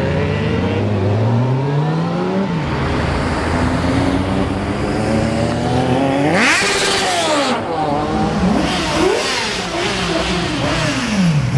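Sport motorcycle engines revving and accelerating: the engine pitch climbs through the gears, shoots up to high revs about six seconds in, then drops and rises again in several quick throttle blips.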